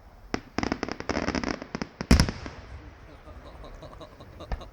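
Aerial fireworks going off: a quick run of crackling bangs, then one loud bang about two seconds in that trails off, and a few scattered pops near the end.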